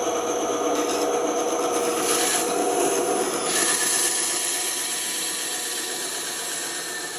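Band saw running steadily, its blade cutting through wood with a rasping sound that shifts as the cut goes on.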